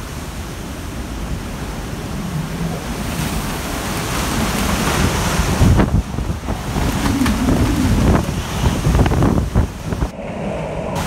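Hurricane-force wind from Hurricane Michael's peak, blowing in surging gusts, with heavy wind buffeting on the microphone.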